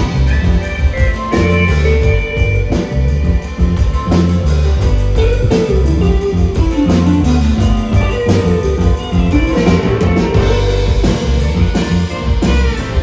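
Live rock band playing an instrumental passage with electric guitars, bass and drum kit.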